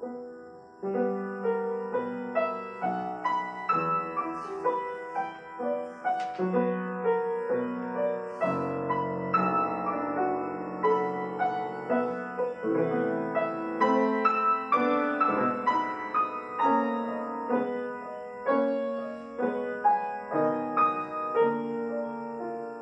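Solo acoustic piano playing a slow, lyrical classical piece, with a melody over repeated chords and notes sounding continuously.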